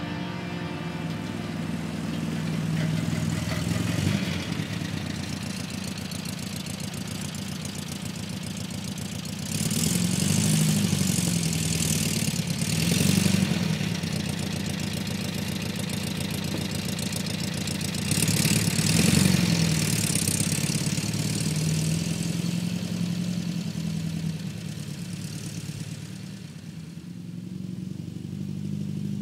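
Air-cooled flat-four engine of a 1973 Volkswagen Beetle 1303, running with its engine lid off as the car drives past on grass. The engine note rises and falls as it revs, loudest about ten to fourteen seconds in and again about nineteen seconds in, then fades as the car moves away.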